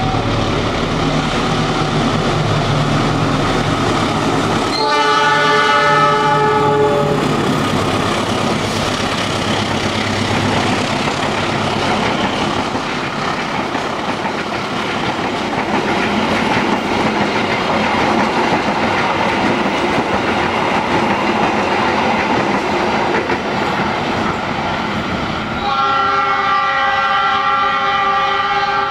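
A diesel-electric locomotive, a CC206, runs toward the listener with a low engine hum, then sounds its horn for about two seconds, the semboyan 35 warning signal. Its passenger coaches then pass close by with a steady rumble and clatter of wheels on rail. Near the end a horn sounds again for about three seconds.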